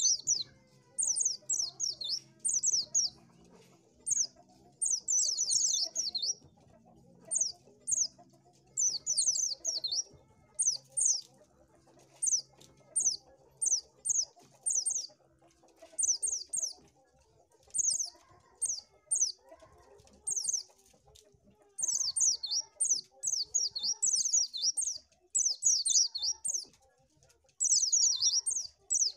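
White-eye (pleci) singing: short, quick bursts of high, thin chirping notes, repeated every second or so with brief pauses between.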